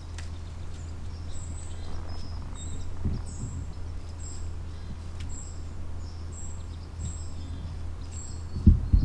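A small bird chirping, short high notes about once a second, over a steady low hum. Two dull thumps near the end stand out as the loudest sounds.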